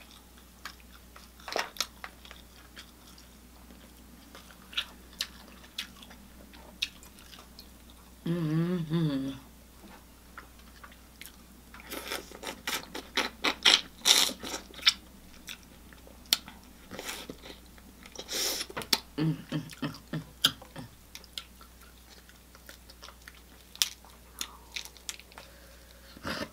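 Close-up eating sounds: wet chewing, mouth clicks and bites of seafood-boil food, coming in irregular bursts with a denser, louder run of crunching clicks in the middle. About eight seconds in there is a short low wavering sound lasting about a second.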